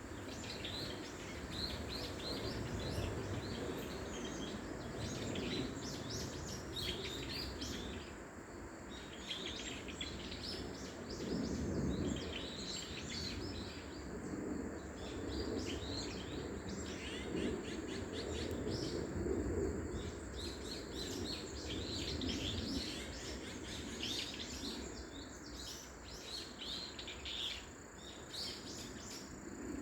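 Wild songbirds chirping and calling in a busy chorus of short, rapid high chirps, over a steady low rumble of background noise.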